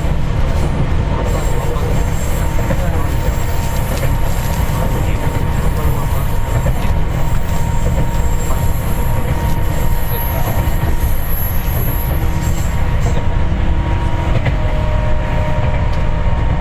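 Seibu 4000 series electric train running between stations, heard from inside the passenger car: a steady, loud rumble of wheels on rail with a thin, steady high whine above it.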